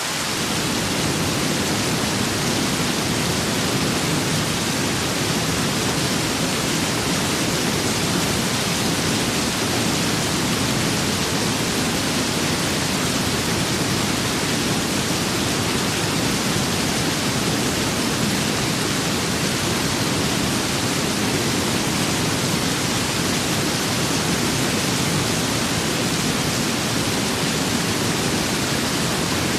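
Steady rain with wind, an even rushing hiss with no separate drops or gusts standing out. A deeper rushing layer fills in just after the start, lifting the level a little, then it holds constant.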